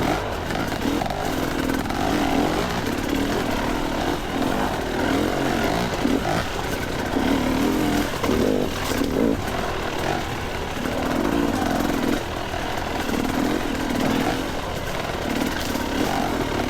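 Two-stroke dirt bike engine running under the rider, its pitch rising and falling again and again as the throttle is opened and closed over rough trail.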